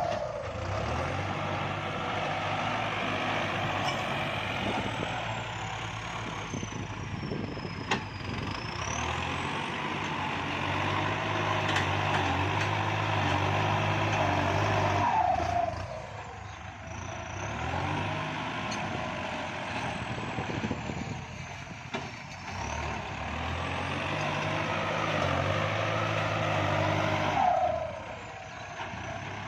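Kubota farm tractor's diesel engine working under load. Twice, about halfway through and near the end, its note falls and the engine eases off.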